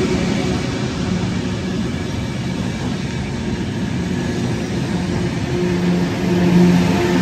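A train running at the station platform: a steady rumble with a low mechanical hum that wavers, easing a little midway and swelling again near the end.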